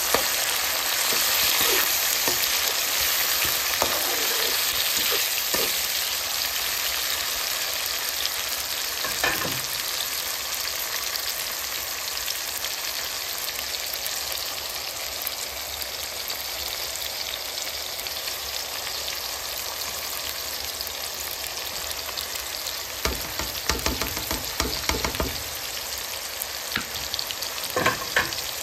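Chopped onions, tomatoes and green chillies sizzling in hot oil in a pan, a steady hiss. A spatula knocks and scrapes against the pan in a quick run about three-quarters of the way through and again near the end.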